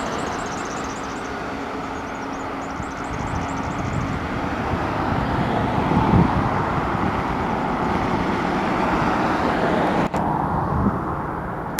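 Hi-rail excavator's diesel engine running as the machine travels along the rail line: a steady, loud rumble with a brief click about ten seconds in.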